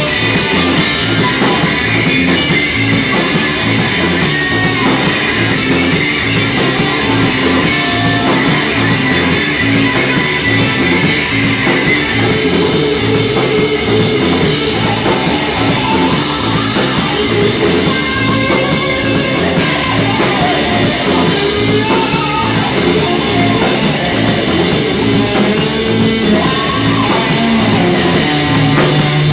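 Live rock band playing an instrumental passage: electric guitar lines over a steady, fast bass and drum-kit groove, with no singing.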